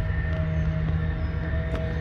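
A steady low mechanical drone with a few steady hum tones over it, unchanging throughout.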